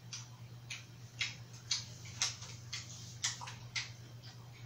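A person chewing food with wet mouth smacks, about two chews a second.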